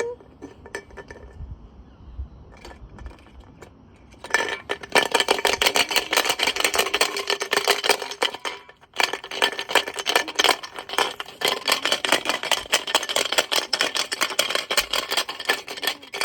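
A brick clattering and banging inside a washing machine drum as it turns. The rapid knocking starts about four seconds in, breaks off briefly near the middle, then goes on: the machine is badly unbalanced, shaking hard enough to jump off its springs.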